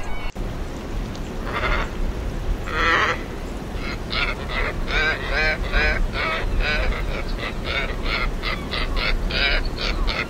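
Scarlet ibis calling: two separate calls, then from about four seconds in a quick run of short, repeated calls at about three a second.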